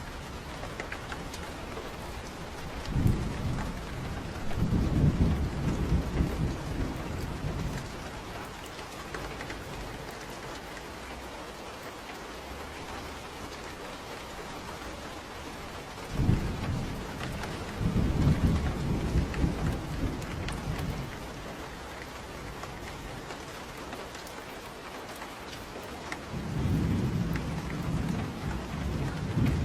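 Steady rain falling on a porch, with three long rolls of low thunder, each lasting several seconds.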